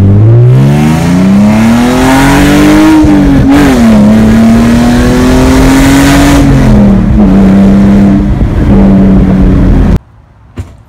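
Very loud straight-piped sports car exhaust accelerating hard: the engine note climbs for about three seconds, dips briefly at a gear change, then holds a steady drone that settles lower before cutting off abruptly.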